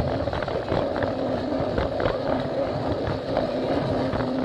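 Plarail toy train's small battery motor running steadily along plastic track, a constant hum with scattered light clicks, over a background of crowd chatter.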